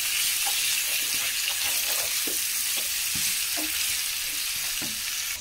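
Vegetables and flaked mackerel fillet sizzling in a stainless steel pan, a steady hiss, while a wooden spoon stirs them with scattered soft scrapes.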